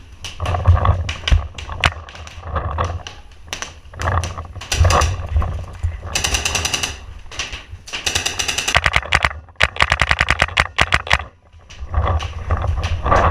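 Paintball markers firing rapid strings of shots, about ten pops a second at the fastest, in several bursts with short pauses between them.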